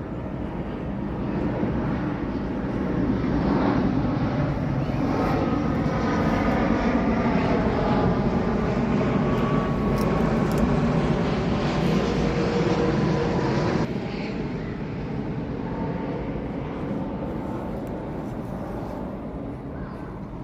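Engine drone that builds over the first few seconds, holds steady, then drops off suddenly about fourteen seconds in and fades.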